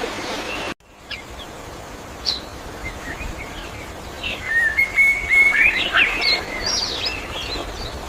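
Songbirds chirping and calling in short, varied chirps and whistled notes. Just under a second in the sound cuts off abruptly and a new recording starts, with sparse chirps that grow into a busier run of calls over the second half.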